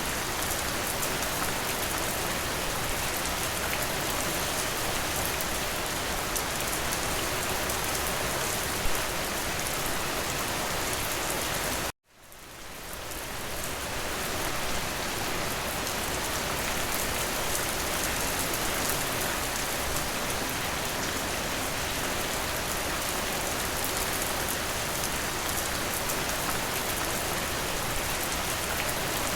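Steady rain, an even hiss with no thunder, and one louder tick about nine seconds in. About twelve seconds in the rain cuts out abruptly and fades back up over a couple of seconds, like a loop splice in the recording.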